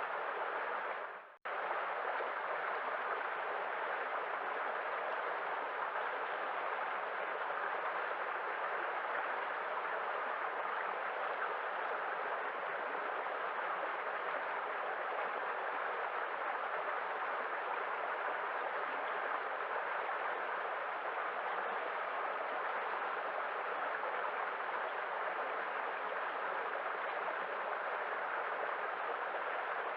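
Continuous rushing of sea waves, a steady even wash with no distinct swells. About a second in it fades and cuts out for a moment, then resumes abruptly.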